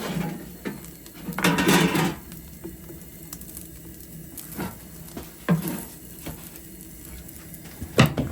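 Cooking pots and utensils being handled: scattered knocks and clatters, with a louder scraping rustle about a second and a half in and a few sharp knocks near the end.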